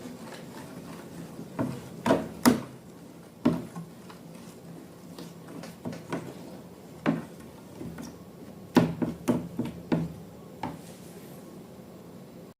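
Scattered light knocks and clicks of containers and utensils being handled and set down on a tabletop, the sharpest near the start and again about nine seconds in, over a faint steady low hum.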